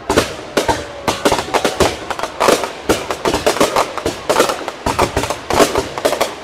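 Aerial fireworks launching and bursting in a rapid, continuous string of sharp bangs and crackles, several a second.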